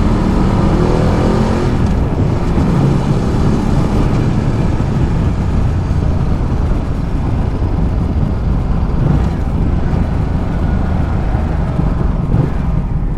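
Ducati Multistrada 1200's V-twin engine running steadily as the motorcycle rides along, mixed with a steady rush of wind noise.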